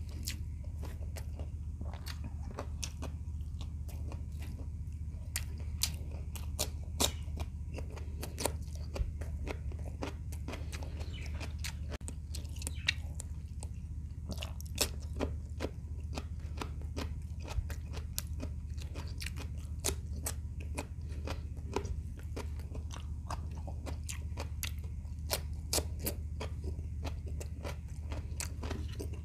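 Close-miked mouth sounds of a person chewing and crunching food, including bites of fresh cucumber slices, with many sharp wet clicks throughout. A steady low hum runs underneath.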